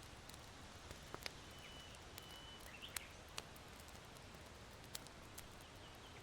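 Faint crackling of charcoal embers in an irori hearth: a handful of sharp pops over a steady soft hiss. A distant small bird gives a thin, steady whistled note followed by a short chirp, about one and a half to three seconds in.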